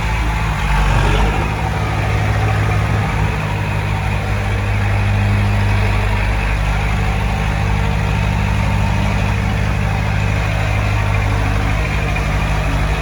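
Heavy diesel engine running steadily at an even low pitch, a little louder about a second in.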